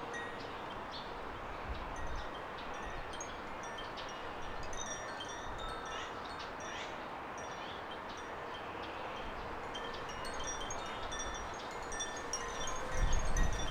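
Small garden birds chirping and twittering in many short, high notes over a steady background hiss. Near the end, wind starts rumbling on the microphone.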